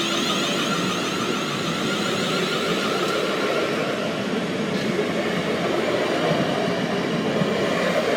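Class 444 electric multiple unit running into the station across the level crossing, a steady train noise growing slightly louder toward the end.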